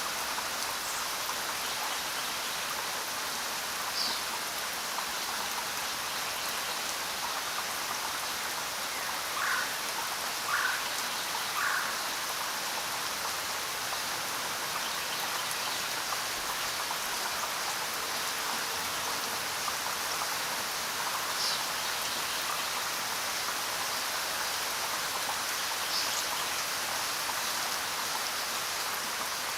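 Steady rain falling, an even hiss of many drops. A few short, higher notes stand out over it, three of them about a second apart near the middle.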